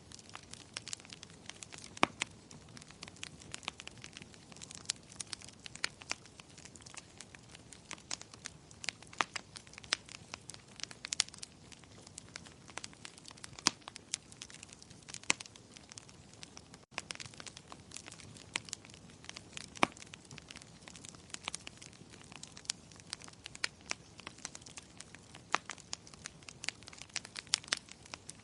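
Wood fire crackling in a fireplace: a steady soft hiss dotted with irregular sharp pops and snaps, a few of them louder than the rest.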